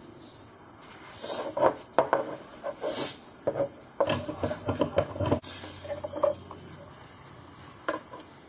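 Small metal parts clinking and knocking against each other and on a work surface in an irregular clatter.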